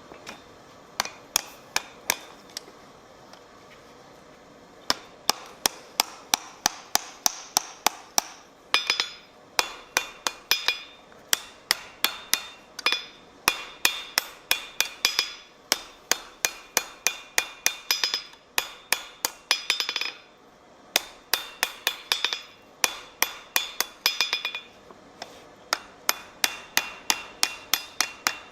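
Blacksmith's hammer striking steel on an anvil in steady runs of three or four blows a second, with a ringing note after many of the blows. A few scattered blows come first, then a short pause, and there are brief breaks between the later runs.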